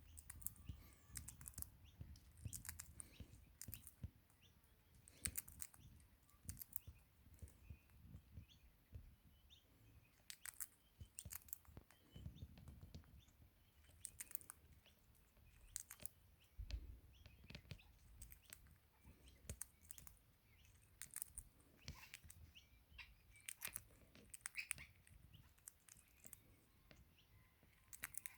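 Faint, irregular sharp clicks of a crimson rosella's beak pecking and cracking sunflower seeds, several a second in quick runs with short gaps, with a few soft chirps.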